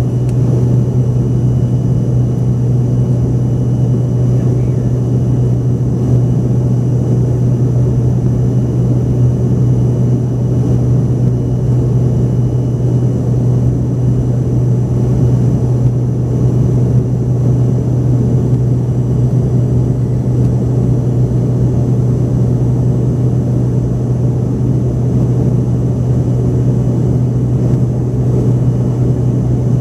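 Steady drone of an Embraer ERJ-145XR's rear-mounted Rolls-Royce AE 3007 turbofans as heard inside the cabin, a loud, even low hum that holds constant throughout.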